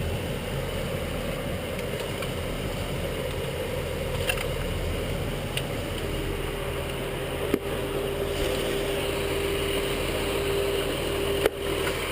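Military truck's engine running steadily, with a steady whine joining about halfway through and two brief clicks near the end.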